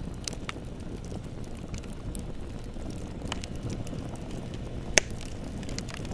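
Bonfire crackling: a steady low rumble of burning with scattered sharp cracks and pops, one loud pop about five seconds in.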